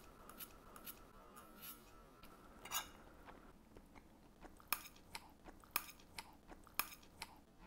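A person eating a plate of steak, rice and cauliflower: faint chewing with scattered sharp clicks, the loudest a little under three seconds in.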